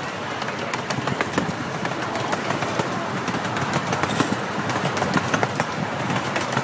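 Miniature park train rolling along its track, heard from a riding car: a steady rumble of wheels on rail with many sharp, irregular clicks and rattles from the wheels and cars.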